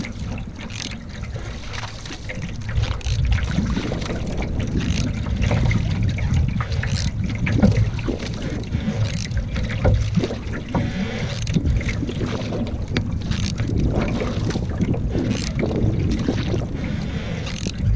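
Wind rumbling on the microphone during canoeing, with repeated short splashes and knocks of water against the canoe.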